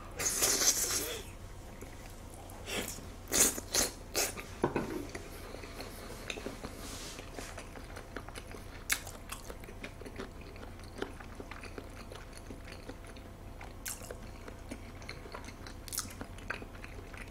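Close-up mouth sounds of someone eating a large mouthful of raw salmon sashimi: a loud noisy burst as the piece goes in at the start, a few sharp mouth clicks about three to five seconds in, then quiet chewing with occasional soft clicks.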